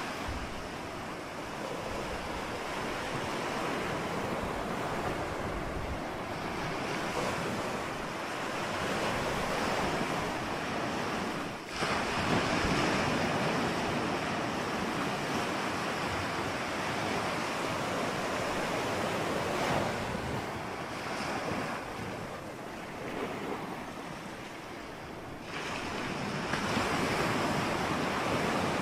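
Ocean surf: waves breaking and washing in, a continuous rush of water that swells and eases every few seconds. There is a brief sudden drop about twelve seconds in, and the sound grows louder again near the end.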